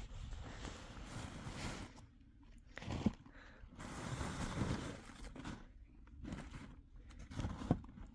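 Footsteps crunching through snow, uneven, with two sharper knocks, one about three seconds in and one near the end.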